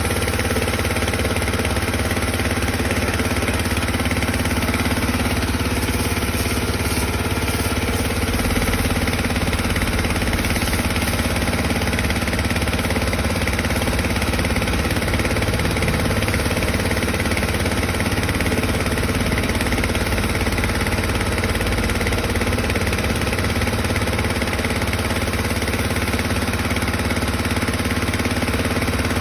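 High-pressure washer machine for washing motorcycles, running steadily with a constant motor-and-pump drone.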